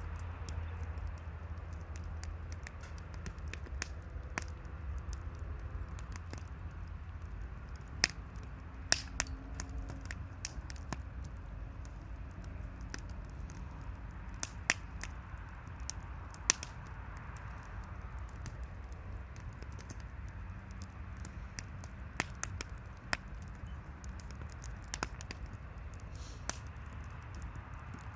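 Wood fire crackling, with irregular sharp pops, a handful of them much louder than the rest.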